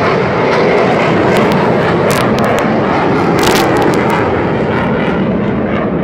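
Engines of aerobatic display planes, a loud steady drone, with a few short crackles near the middle.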